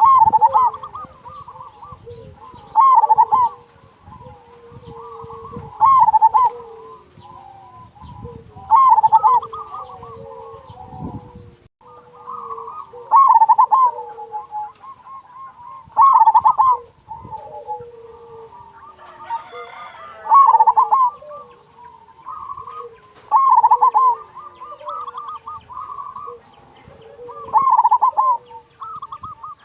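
Zebra dove (perkutut) cooing: a loud rolling coo phrase repeats roughly every three seconds, with fainter cooing between the phrases.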